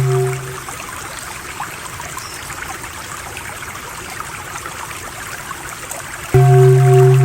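Running water of a stream, a steady trickling rush with small droplet ticks, lasting about six seconds. A steady low 'om' drone with pulsing overtones fades out at the start and cuts back in abruptly near the end.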